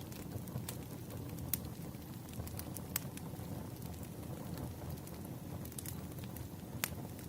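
Wood fire burning: a steady low roar of flames with irregular sharp crackles and pops, a few louder snaps about a second and a half, three and nearly seven seconds in.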